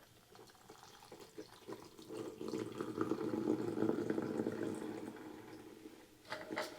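A shaken cocktail being poured from a cocktail shaker into a glass: a liquid stream splashing into the glass that builds about two seconds in and trails off near the end.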